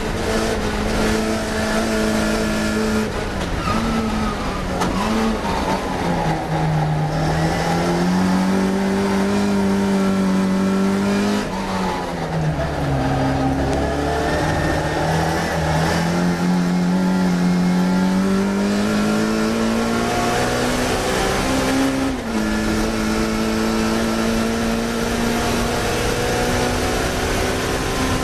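Classic Mini race car's engine at racing speed, its note holding high, dropping and climbing again as it changes gear and brakes for corners. There is a deep dip about twelve seconds in and a sharp step back up about twenty-two seconds in.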